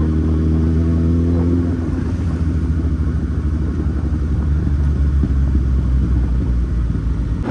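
Kawasaki Z800's inline-four engine running on the move, its pitch rising slightly over the first two seconds, then settling into a steady low rumble.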